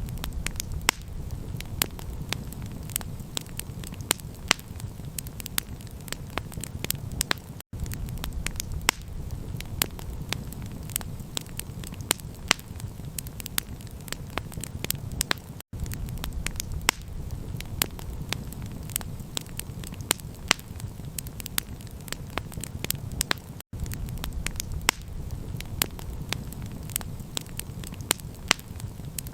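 Campfire crackling: frequent sharp pops and snaps over a steady low rumble. The sound cuts out for an instant about every eight seconds.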